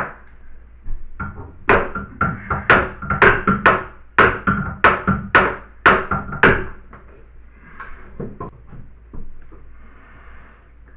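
A hand tool striking hard, about ten sharp knocks at roughly two a second with a ringing note, as the wall around the bathtub taps is knocked apart; lighter knocks and scraping follow.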